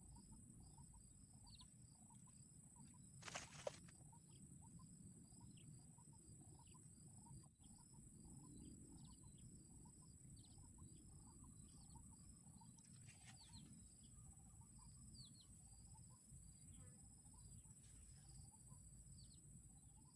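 Faint bird calls repeating about twice a second over a steady high-pitched insect drone, with a short crackle or knock about three seconds in.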